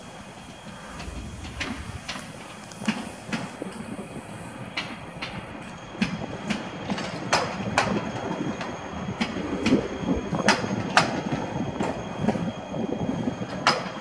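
Stadler FLIRT 3 electric multiple unit rolling slowly past, its wheels giving sharp, irregular clicks over the rail joints, growing louder and more frequent from about six seconds in. A faint high steady tone runs underneath.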